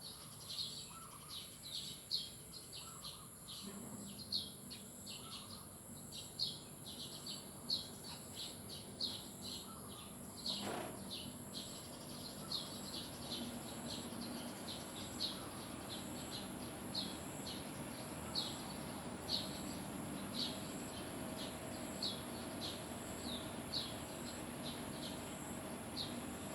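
Small birds chirping, a quick string of short high chirps about two or three a second, over a steady high hiss.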